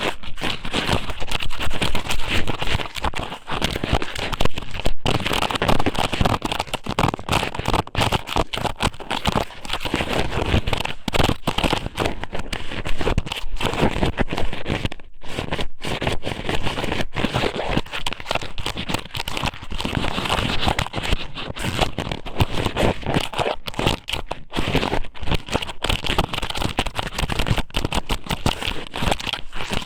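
Squid noodle strips (ika sōmen) pushed into and rubbed around a microphone's ear, making a dense, continuous close-up crackling and crinkling.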